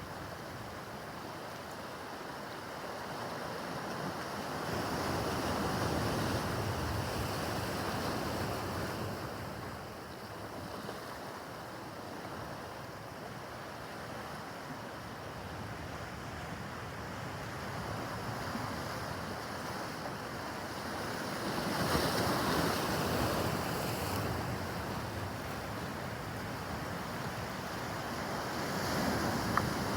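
Rough harbor water: waves washing and breaking, with wind buffeting the microphone. The noise swells louder twice, at about five seconds and past twenty, then again near the end.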